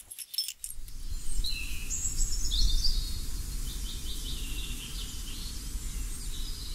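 Birds chirping and calling in short repeated phrases, over a steady low rumble.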